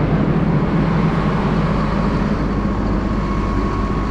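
RoGator self-propelled sprayer running steadily: a continuous low engine drone with a faint thin whine above it.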